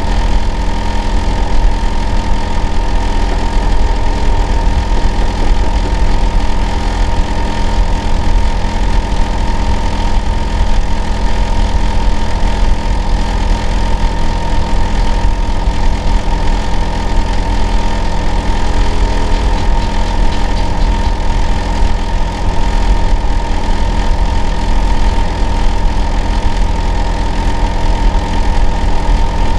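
Hitachi air conditioner outdoor unit running: a loud, steady low hum with several constant tones and a higher whine over it. It is a noise the listener next door finds abnormal.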